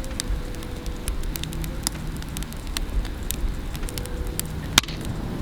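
Campfire crackling, with irregular small pops and one sharper pop near the end, over a low steady rumble.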